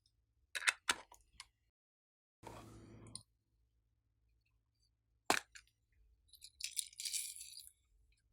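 Small hard objects clicking and clinking during slime handling: a few sharp clicks early on, a short soft rustling squish about two and a half seconds in, a single sharp click after about five seconds, and a crackly flurry of small clinks near the end.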